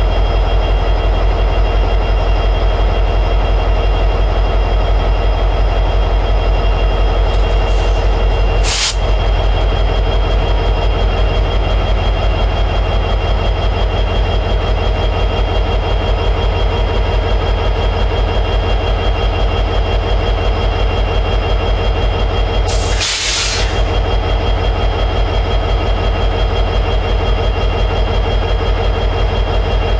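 EMD 710G3B 16-cylinder two-stroke diesel prime mover of an SD60E locomotive, running steadily in high idle. Two short bursts of hiss cut in over it, a brief one about nine seconds in and a slightly longer one about 23 seconds in.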